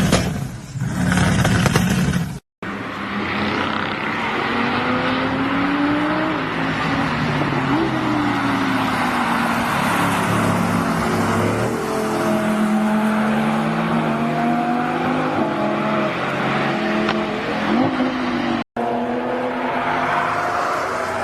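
Sports car engines revving and accelerating, their pitch rising and falling again and again over tyre and road noise. The audio breaks off abruptly twice, about two and a half seconds in and near the end, where one clip cuts to the next.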